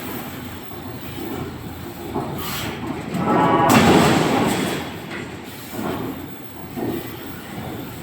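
Heavy forging-shop machinery running with a rough, rumbling clatter, swelling to its loudest about four seconds in.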